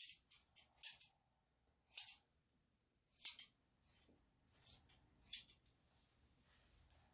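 Grooming scissors snipping dog hair: a string of short, sharp snips at irregular intervals, about ten in all.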